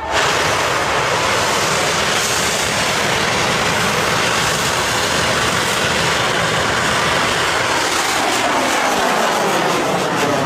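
Rocket engine roaring at launch: a loud, steady roar that cuts in suddenly and holds, with a faint sweeping, phasing quality near the end.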